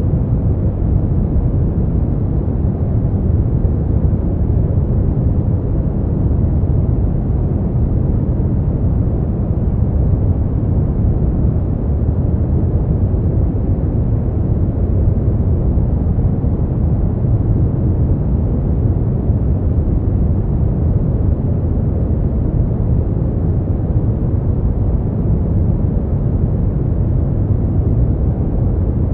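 Steady brown noise: an even, unchanging rumbling hiss, heaviest in the bass and fading out toward the treble.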